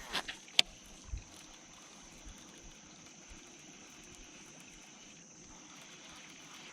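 Two sharp clicks in the first second and a low knock about a second in, then faint steady background hiss with a thin high steady whine.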